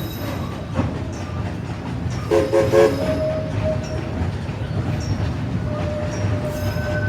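Steam whistle of East Broad Top steam locomotive No. 16 sounding two short chime blasts about two and a half seconds in, over the steady rumble of the passenger coach rolling behind it.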